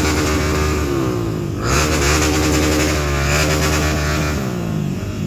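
Trail motorcycle engine revving under load, its pitch rising and falling, with a fresh burst of throttle about one and a half seconds in.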